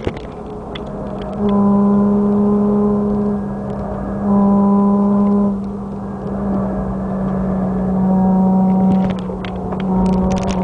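Nissan 350Z's 3.5-litre V6 through an aftermarket full exhaust, heard from inside the cabin, droning at a steady engine speed. The drone swells and eases several times as the throttle is applied and lifted, with occasional light rattles and knocks from inside the car.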